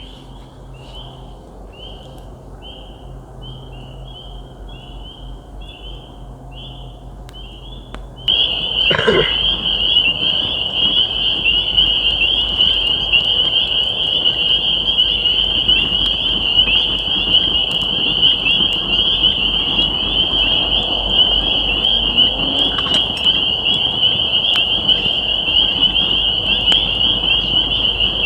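Spring peepers calling: separate high peeps, about two a second, then from about eight seconds in a dense, louder, unbroken chorus of peepers. A single knock about nine seconds in.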